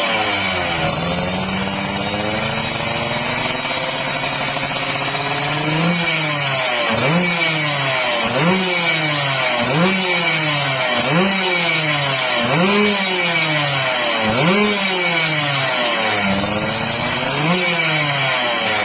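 Yamaha RX King's 135 cc two-stroke single running through its exhaust. It is held at a moderate speed for the first few seconds, then blipped sharply and let fall back about every second and a half.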